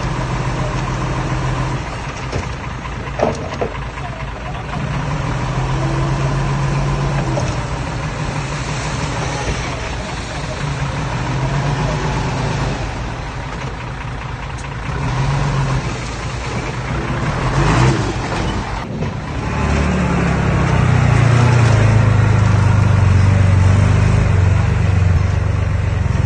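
Diesel engine of heavy earthmoving machinery running continuously, its pitch and loudness shifting as it works under changing load, running louder and deeper for the last few seconds.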